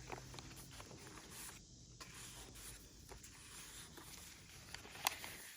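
Faint rustling and soft taps of paper and card pages of a handmade journal being handled and turned, with one sharper click about five seconds in.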